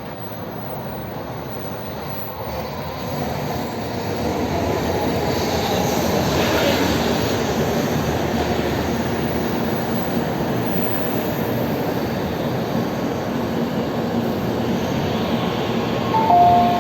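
Train running, heard from inside the carriage: the rumble of wheels on the track grows louder over the first few seconds and then holds steady. Near the end a two-note electronic chime sounds, the signal that an onboard announcement is coming.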